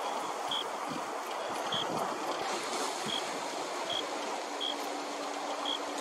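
A short, high call note repeated roughly once a second, like a small bird calling, over a steady rushing background noise.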